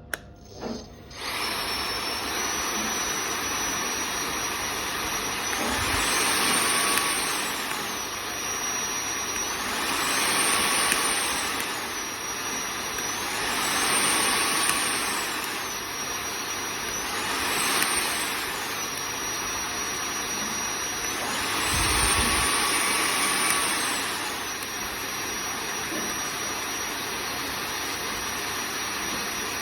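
Bosch cordless stick vacuum cleaner switched on about a second in and running with a high whine that keeps surging: the motor speeds up and drops back again about every four seconds, a sign of the fault it has.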